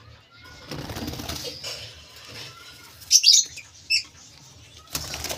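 Lovebirds: a stretch of rustling wing-fluttering, then two short, sharp high-pitched chirps about three and four seconds in.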